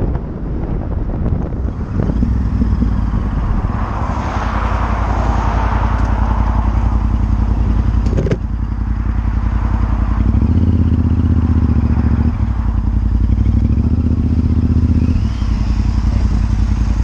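Honda Varadero 1000 V-twin motorcycle engine running on the road, with its note stepping up and down a few times, mixed with wind rush.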